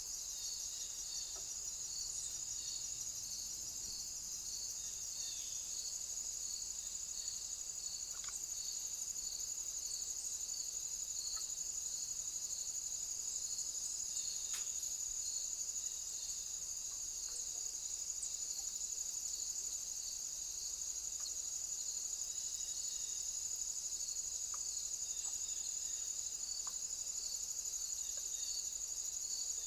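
Crickets stridulating: a steady high-pitched trill with a chirp repeating about twice a second underneath, and a few faint ticks.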